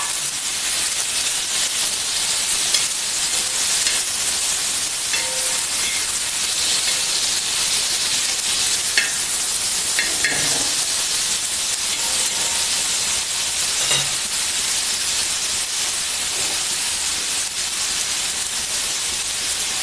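Chopped tomatoes frying in oil on a flat tawa griddle, a steady sizzle, with a few short scrapes and taps of a spatula stirring them about halfway through.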